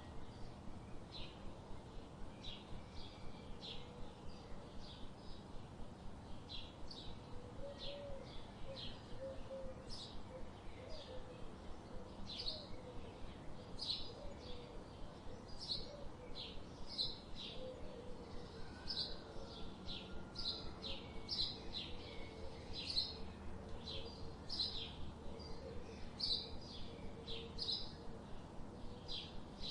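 Small birds chirping: a steady run of short, high chirps, about two a second, with a fainter low warbling note in the background.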